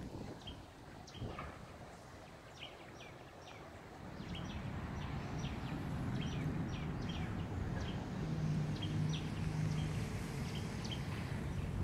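Birds chirping, short high calls repeating two or three times a second. A low rumble with a faint steady hum comes up about four seconds in.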